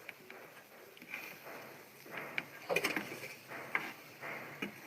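Mukbang eating sounds: paknam and singju being handled and chewed, with a few small clicks and short rustles.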